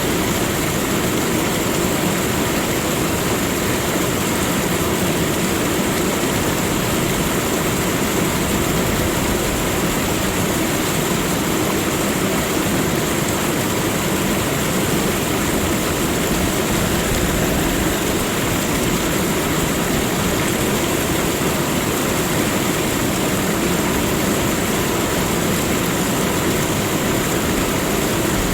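Steady rushing of flowing water, an even, unbroken noise with no changes.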